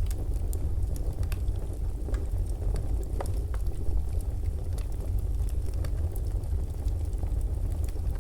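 Fireplace burning, with a steady low rumble of the fire and scattered sharp crackles and pops of the wood.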